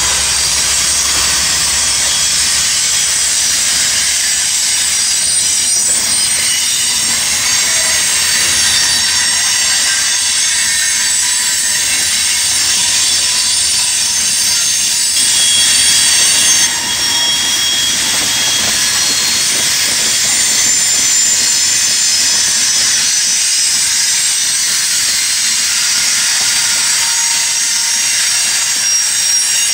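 Freight train cars rolling past, their wheels squealing on the rails in several high, steady whines over the running noise of the train.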